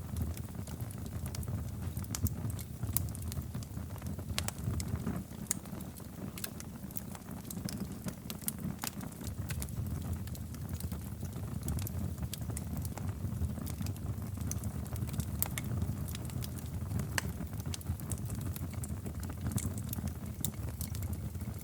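Wood fire in a fireplace crackling, with irregular sharp pops and snaps over a steady low rumble of the burning logs.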